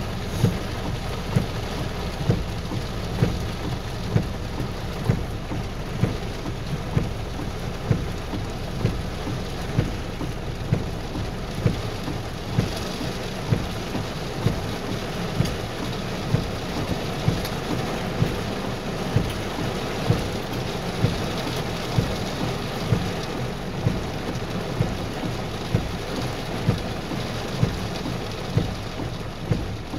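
Heavy rain drumming on a car's roof and windshield, with the windshield wipers thumping regularly about once a second.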